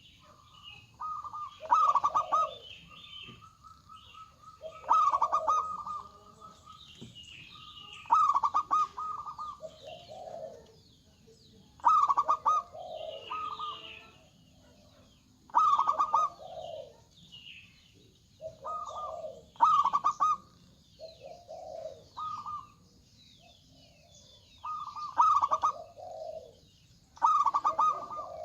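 Zebra doves (local perkutut) cooing, their rolling phrase repeated about every three to four seconds, with higher chirping between.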